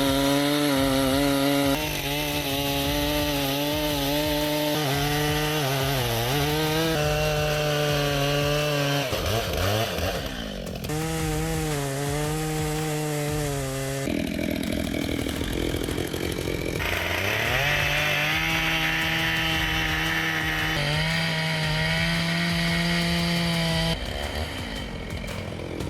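Chainsaw engine running near full throttle while cutting wood, in several short clips joined with abrupt changes of pitch and tone. The revs dip and recover now and then, and drop and climb again about ten seconds in.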